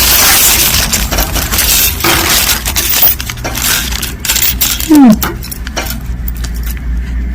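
Small glass charms and beads clinking and ticking as they are handled, over the rustle of a small bag being rummaged. About five seconds in comes one brief, loud falling tone.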